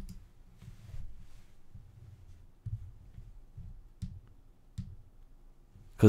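Quiet room tone with a low hum, broken by a few sharp clicks of a computer mouse, the loudest about two-thirds of the way through.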